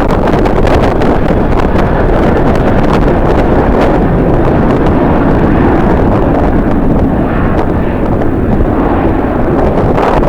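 Strong wind buffeting the microphone: a loud, continuous rumble that churns and gusts.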